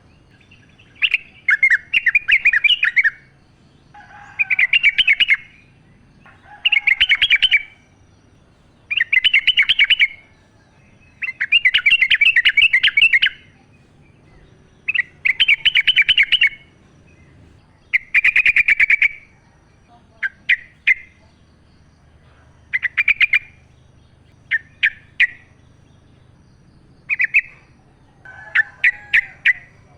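Wild yellow-vented bulbul (trucukan) singing: a string of short, bubbly song phrases about every two seconds, turning into shorter, choppier bursts in the second half.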